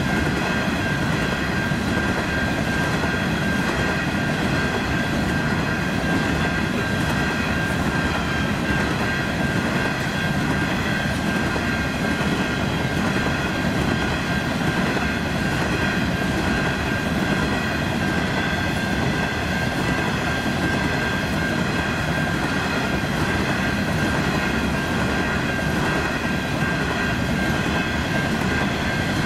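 Coal hopper wagons of a long freight train rolling past steadily on the rails, with a steady high-pitched ringing tone held over the running noise.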